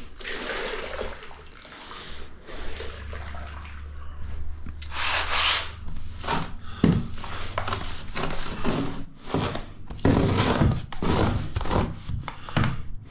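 Grout being rubbed and scraped across tiles into the joints by hand, in a series of irregular strokes. The loudest stroke comes about five seconds in, and a quick run of strokes follows near the end.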